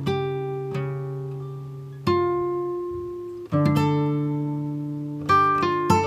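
Background instrumental music: plucked-string chords struck and left to ring and fade, a new chord every second or two, with a quicker run of notes near the end.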